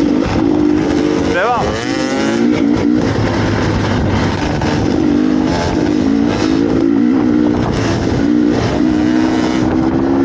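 Dirt bike engine running with the throttle opening and closing, its pitch rising and falling in short stretches. A brief voice cuts in about one and a half seconds in.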